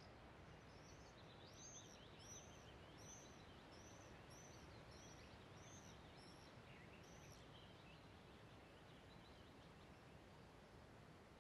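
Faint outdoor ambience in which a small songbird repeats a short, high, arched note about ten times, roughly three every two seconds, then stops about two-thirds of the way through. Softer twittering from another bird comes and goes underneath.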